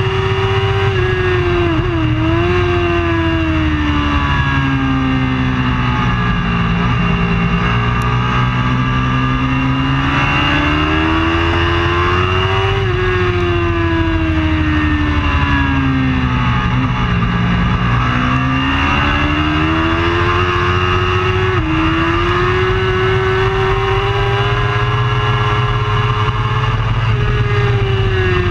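Superbike racing motorcycle engine running hard, its pitch falling and rising in long sweeps several times as the revs drop and climb, with a sudden jump in pitch about three quarters of the way through.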